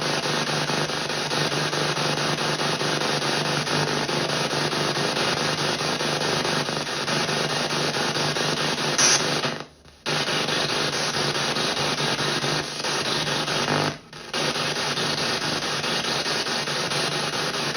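PSB7 spirit box sweeping radio stations in reverse, giving a steady hiss of static through stereo speakers; it cuts out briefly twice, about ten and fourteen seconds in.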